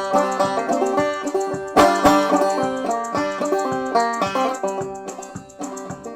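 Clawhammer banjo playing an old Appalachian tune: a steady run of picked notes and brushed strums, with a strong accent about two seconds in, growing softer near the end.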